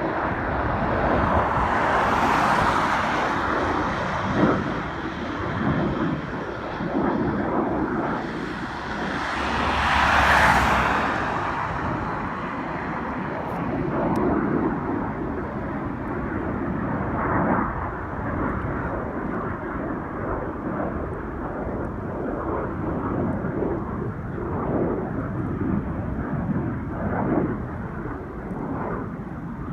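Military jet aircraft engines running, with a steady rumble that swells twice, about two seconds in and about ten seconds in, as the jet noise grows louder and sharper.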